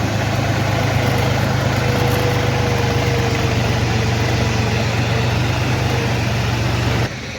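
Mahindra 275 DI tractor's three-cylinder diesel engine running steadily as it pulls away with a loaded sugarcane trolley. The engine sound drops away suddenly near the end.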